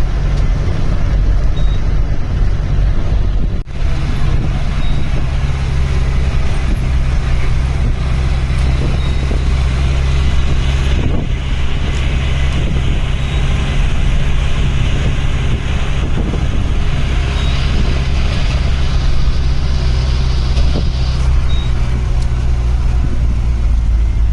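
Safari vehicle's engine running steadily while driving, heard from on board as a low, continuous drone, with a brief dip about three and a half seconds in. Faint short high chirps recur every few seconds over it.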